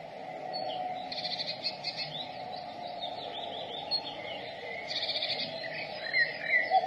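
Small songbirds chirping and trilling in high, quick phrases. Right at the end a common cuckoo's low call begins.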